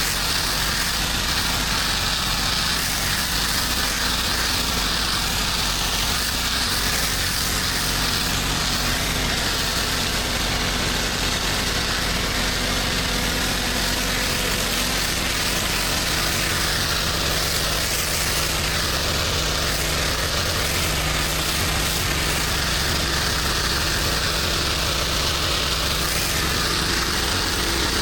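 A small engine of pressure-washing equipment running steadily at one constant speed, with a steady hiss over it.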